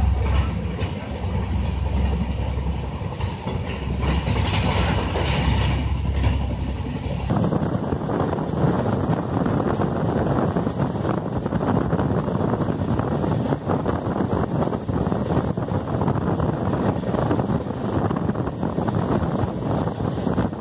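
Running noise of an express train at about 104 km/h: a steady rumble of the wheels on the rails heard inside an LHB passenger coach. About seven seconds in it switches abruptly to the sound at an open coach door, loud rushing air mixed with wheel and rail noise.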